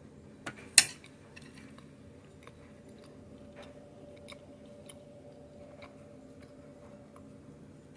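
A person biting into and chewing a donut: a sharp click just under a second in, then soft scattered chewing ticks over a steady low hum.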